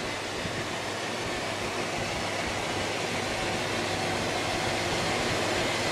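Spirit box radio scanner hissing with steady static as it sweeps through stations, no words coming through, slowly getting louder.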